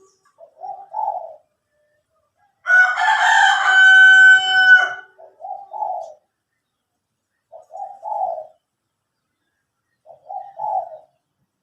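Cage doves cooing in short, repeated phrases, four times. About three seconds in, a much louder bird call lasting about two seconds stands out above the coos.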